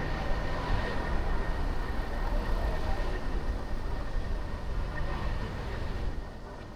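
A car driving through city traffic: steady engine and tyre noise on the road, a little quieter near the end.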